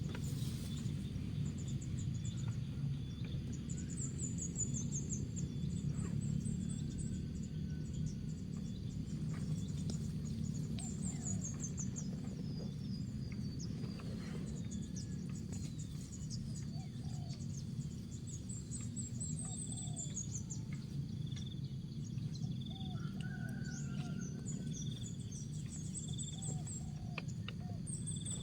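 Small birds chirping in quick high-pitched runs over a steady low rumble, with a few faint low notes and a soft repeated insect-like pulse near the end.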